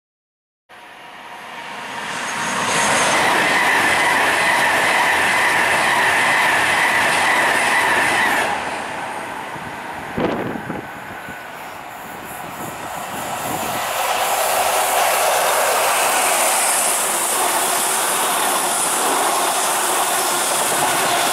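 A Class 43 HST diesel train running through a station at speed. The power car's engine and the wheels on the rails build up over about two seconds and stay loud. The sound eases off near the middle with a short sharp knock, then rises again as the coaches and the trailing power car pass.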